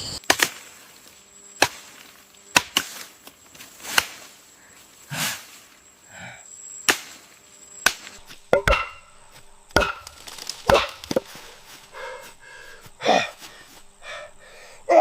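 Irregular series of sharp chopping strikes on wood, about a dozen over the stretch, some with a short ringing tail.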